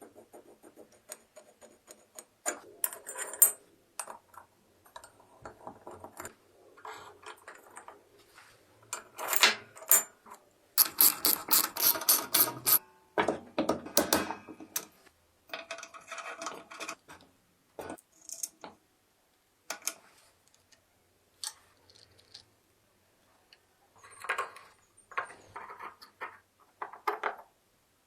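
Hand tools working on the metal parts of a 1970 Solex moped: intermittent clinks, clicks and scrapes, with a fast run of clicks like a ratchet about eleven seconds in.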